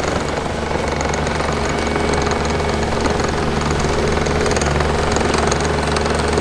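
Heavy earthmoving machine's engine running steadily under load, with a low, even hum.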